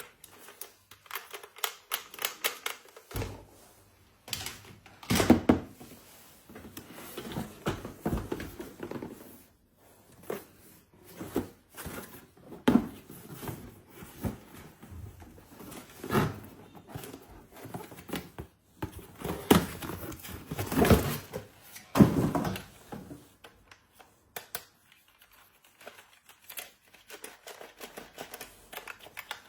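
Hands unboxing and handling small plastic toys: irregular clicks, taps and knocks, with some crinkling of packaging.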